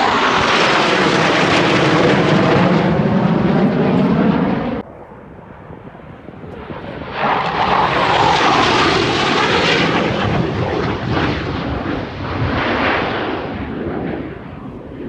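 USAF Thunderbirds F-16 fighter jets flying low past, loud, with the sweeping, shifting tone of a fast flypast. The sound drops off sharply about five seconds in, and a second jet pass swells up a couple of seconds later and fades toward the end.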